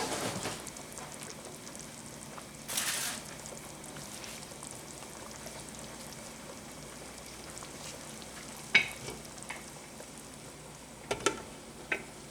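Ground beef sauce sizzling and simmering in a pan on the stove. A short shake of a seasoning jar comes about three seconds in, and a few sharp utensil clicks come near the end.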